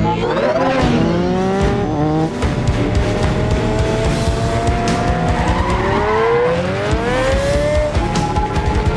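Action-movie chase soundtrack: sports car and motorbike engines revving hard, their pitch climbing again and again, with tyre squeals, all over a music score.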